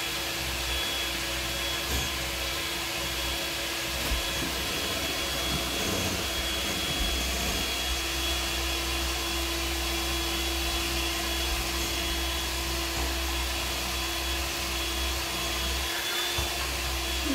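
Steady whir of a small electric motor with a constant hum, running evenly throughout.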